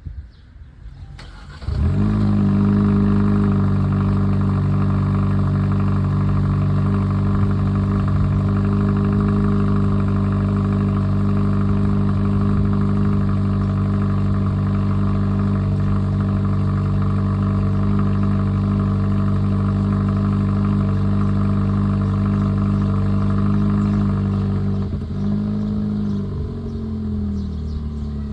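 2023 Kia Forte GT's turbocharged 1.6-litre four-cylinder engine on a cold start: it cranks and catches about two seconds in, then runs at a steady, fast cold idle. Near the end the idle drops lower and wavers before settling.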